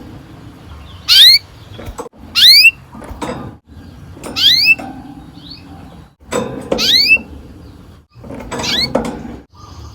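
Canary giving short, sharply rising chirps, about six of them, spaced one to two seconds apart, with a few faint knocks between.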